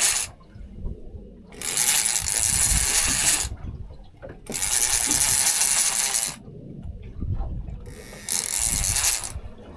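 Havoc Pro EX 30W two-speed lever-drag multiplier reel ratcheting as it is wound in three spells of about two seconds each, with pauses between them: line being pumped back onto the reel against a hooked tope.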